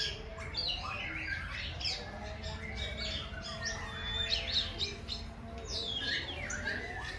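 A crowd of birds chirping and calling all at once: many short, quick notes, often falling in pitch, overlapping one another.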